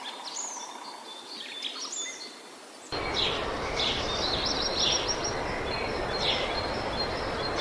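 Birds singing and calling, with short chirps, whistled glides and a quick trill. About three seconds in, a cut brings in a louder steady rushing noise under the continuing bird calls.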